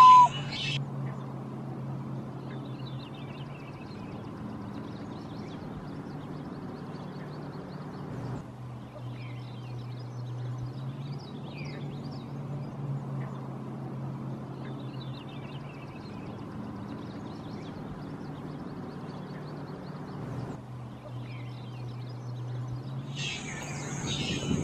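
Faint, scattered high-pitched bird chirps over a steady low hum.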